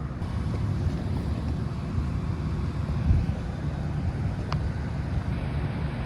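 Steady low outdoor rumble of street traffic and wind on the microphone, with a short thump about three seconds in and a faint tick about a second and a half later.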